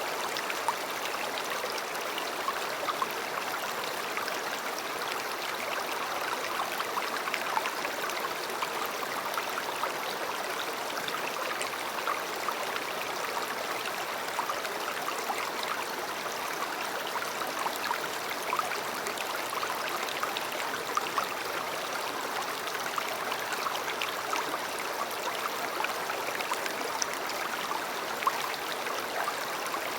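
A river flowing steadily: an even rush of water with many small, quick splashes and trickles through it.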